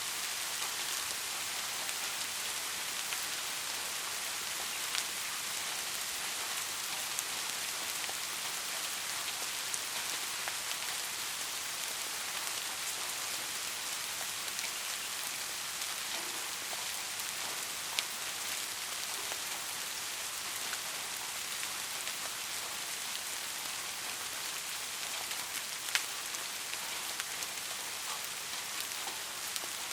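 Steady rainfall hissing evenly, with a few louder single drops ticking sharply now and then, the strongest about two-thirds of the way in.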